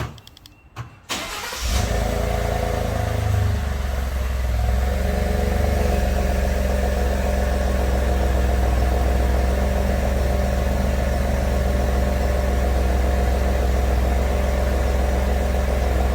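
2016 Ford F-150's 2.7-litre twin-turbo EcoBoost V6 on its stock exhaust, starting up after a couple of hours' rest: a warm-ish start, not a true cold start. A few clicks come first. The engine catches about a second and a half in, runs slightly higher for a couple of seconds, then settles into a steady idle.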